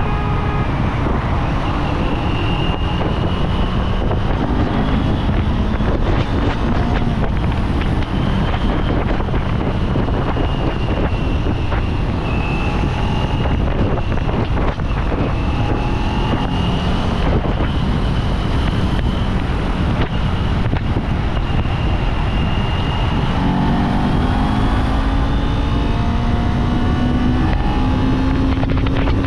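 Kawasaki Z400 parallel-twin motorcycle engine running under way, with heavy wind rushing over the microphone. The engine note climbs gradually near the end as the bike accelerates.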